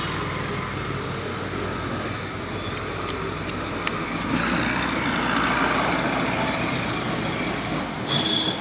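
Motor vehicle engine noise, steady with a swell in the middle, with a few light clicks.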